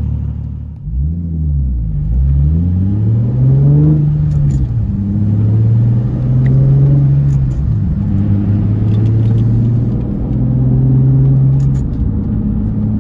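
Nissan 370Z's VQ V6 running through a Tomei exhaust with a resonated Motordyne XYZ pipe, heard inside the car while driving, with a tone described as a lot more clear than the old raspy sound. The revs swing up and down in the first few seconds, then hold fairly steady with brief dips about two-thirds of the way in and again near the end.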